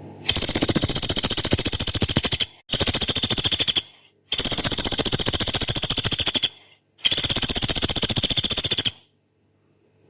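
Pelatuk beras, a small woodpecker, giving four long, rough, high rattling calls in quick succession, each a fast run of even notes lasting one to two seconds with short breaks between.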